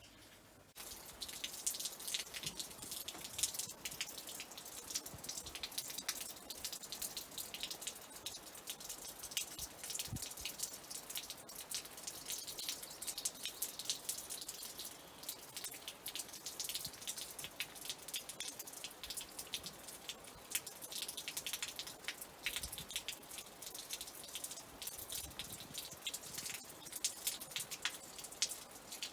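Rain falling, with many close drops tapping on a surface. It starts abruptly about a second in.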